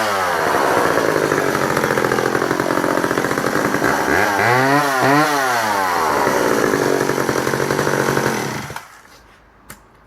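Danarm 55 Mark 3 54cc two-stroke chainsaw running loud; its engine revs up and down twice about halfway through, then settles to a steady lower note. It stops abruptly about nine seconds in, followed by a couple of small clicks.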